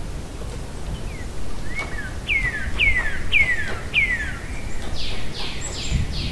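A bird singing a run of clear whistled notes, each sliding sharply down in pitch, about two a second, followed by fainter, higher notes near the end, over a low, steady background noise.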